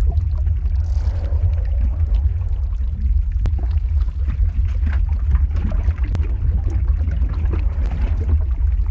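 Lava-flow ambience sound effect: a steady deep rumble with scattered sharp crackles.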